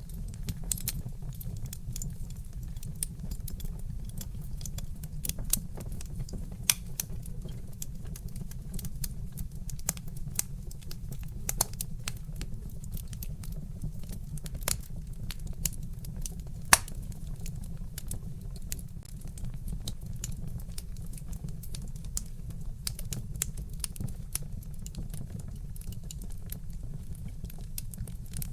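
Wood fire crackling in a fireplace: a steady stream of irregular sharp pops and snaps over a low, steady rumble, with one louder pop a little past halfway.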